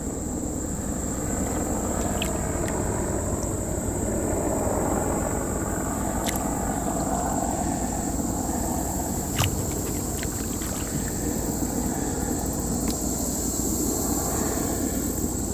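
A dredge boat's engine runs steadily with a low drone. A constant high insect whine sits over it, and a few sharp knocks sound, the loudest about nine and a half seconds in.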